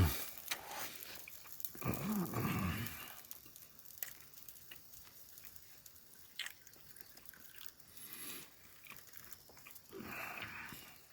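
A person chewing a mouthful of food topped with wasabi and radish sprouts, with faint crunches and mouth clicks. A short hummed 'mm' of enjoyment comes about two seconds in, and a softer murmur near the end.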